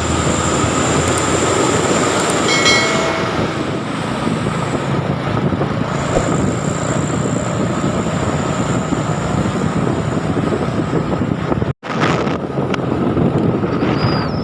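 Heavy truck on the move, its engine and road noise loud and steady, with a short horn toot about two and a half seconds in. The sound cuts out for an instant near the end.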